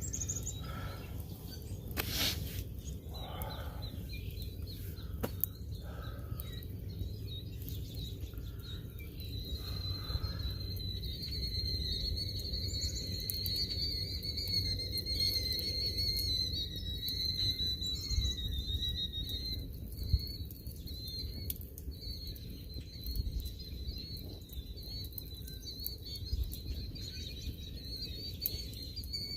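Outdoor ambience with a steady low rumble and scattered bird calls in the first few seconds. Then, from about ten seconds in, a high, slightly wavering whistling tone holds for most of the rest.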